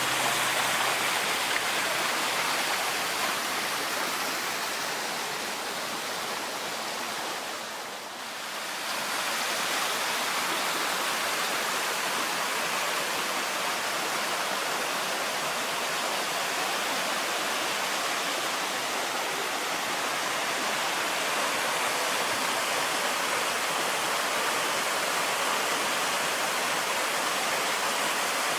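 Steady rush of running water, an even hiss that dips briefly about eight seconds in and then carries on unchanged.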